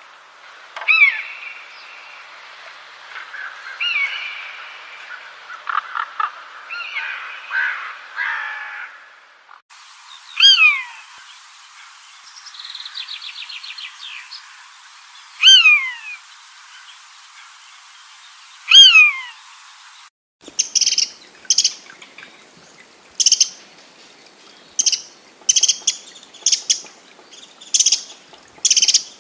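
Wild birds calling, in three separate recordings joined by sudden cuts: first a mix of short calls, then loud whistled notes that slide downward, with a brief fast trill among them, and near the end short high calls repeated about once a second.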